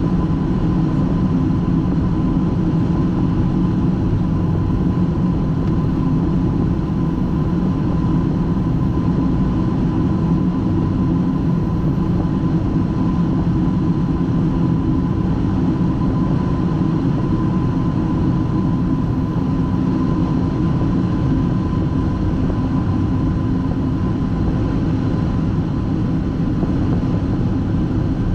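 Steady rush of airflow and engine noise on the flight deck of a Boeing 757-200 freighter in flight, heavy and low, with a thin steady whine running through it.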